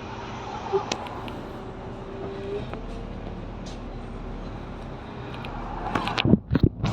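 Volvo B9TL double-decker bus running, a steady engine and road noise with a faint tone rising briefly about two seconds in. A run of loud sharp knocks and thumps comes near the end.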